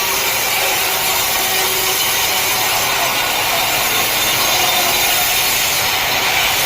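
Sawmill saw running and cutting through wood, a loud, steady hiss-like noise without a break.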